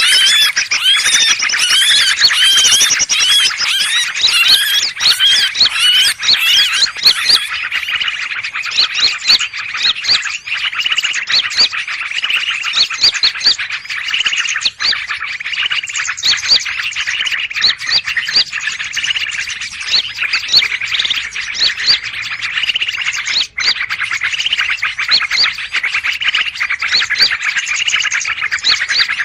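Many small birds calling at once in a noisy commotion: dense, overlapping, rapid chirps and trills at a steady level. This is a 'burung ribut' bird-trapper's lure recording used to draw in greater green leafbirds.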